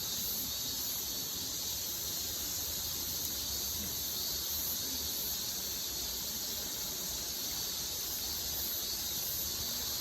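Steady riverside ambience: a constant high-pitched shrill drone over a low, even rush, with no break or change.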